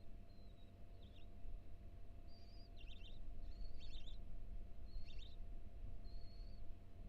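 A small songbird singing in repeated short phrases, about five times: each is a thin, high, steady whistle followed by a quick, jumbled flourish of chirps. A steady low hum runs underneath.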